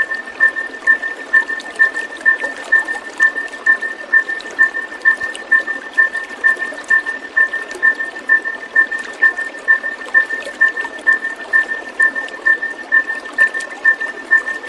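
A short high chirp repeating evenly about twice a second at one fixed pitch, over a steady rush of running water.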